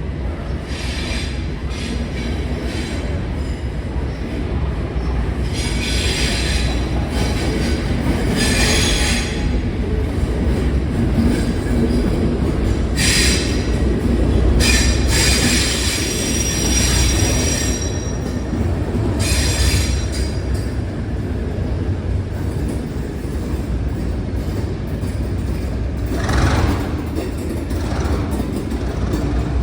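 Class 52 Western D1015's twin MTU V12 diesel engines running with a steady low rumble. Short high-pitched wheel squeals break out every few seconds as the train moves.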